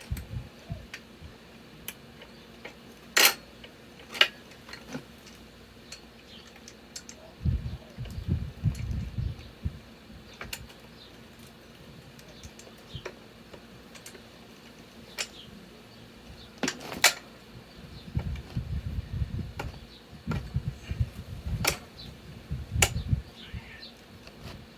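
Hand tools and metal motorcycle parts clicking and clinking at irregular intervals, with a few sharper knocks. There are two stretches of low rumbling handling noise, about seven seconds in and again about eighteen seconds in.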